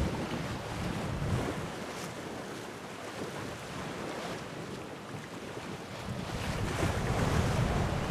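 Sea waves washing ashore, with wind buffeting the microphone; the wash swells louder near the end.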